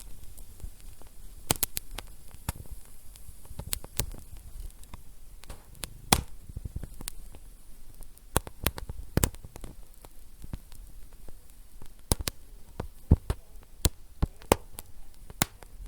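Wood fire in a fireplace crackling, with sharp irregular pops over a low steady rumble of the burning logs.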